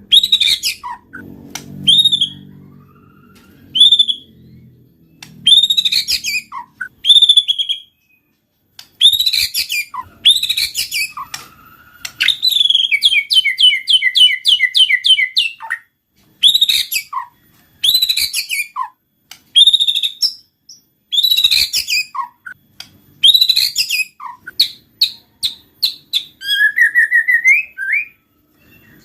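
White-rumped shama singing in full voice: loud, varied whistled phrases with short pauses between them, and a fast run of rapidly repeated notes lasting about four seconds near the middle.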